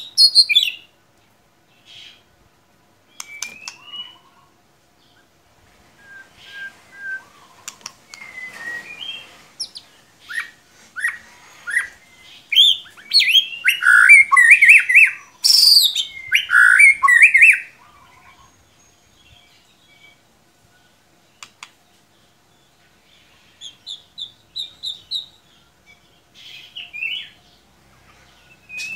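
White-rumped shama (murai batu) singing: varied whistles, trills and chattering phrases, sparse at first, then a dense, loud run of song about twelve to eighteen seconds in, followed by a few quieter short phrases near the end.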